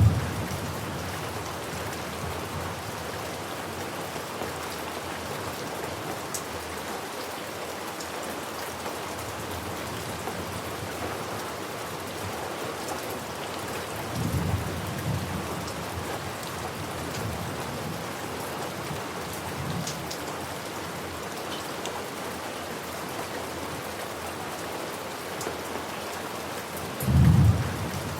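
Steady heavy rain falling, with low rumbles of thunder: one at the very start, a softer one about halfway through and a louder one near the end.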